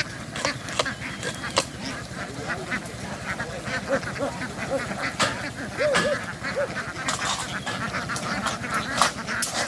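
A flock of ducks quacking in short, scattered calls, over many small clicks and taps.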